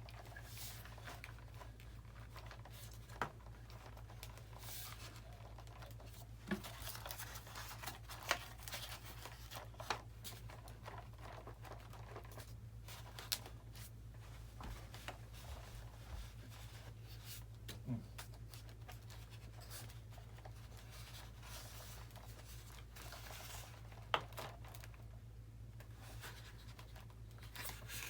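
Hands handling the parts and wiring of an RC model plane: faint rustling with a few scattered light clicks and taps, over a steady low electrical hum.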